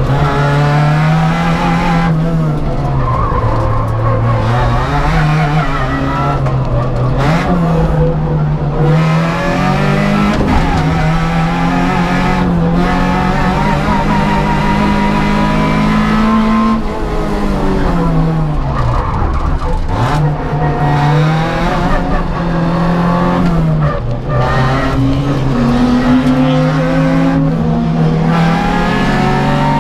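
Opel Kadett GSI 2.0 Group N race car's four-cylinder engine at racing speed, heard on board, its pitch climbing and dropping again and again as the gears are run up and changed.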